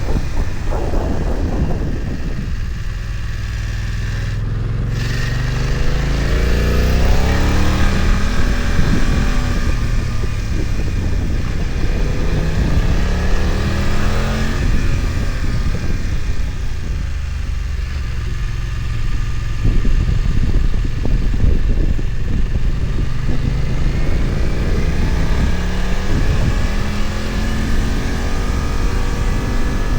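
BMW F900XR's parallel-twin engine heard on board, pulling hard through the gears with revs climbing in repeated rising steps, easing off and dropping in pitch twice, once early on and again about two-thirds of the way through.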